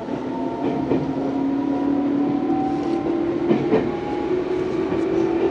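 Tobu 634-type electric train heard from on board. Its traction motors give a steady whine that slowly rises in pitch as it gathers speed, over running noise, with two quick wheel clacks over rail joints about three and a half seconds in.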